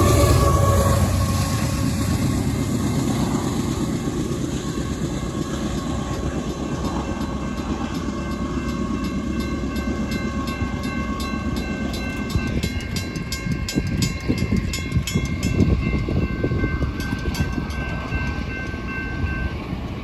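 A Union Pacific diesel locomotive and coal train rumbling past on the rails, with a tone that drops in pitch as the locomotive passes and then fades away. Railroad crossing bells, an electronic bell and a mechanical bell, keep ringing with rapid, even strikes and stop shortly before the end as the crossing deactivates.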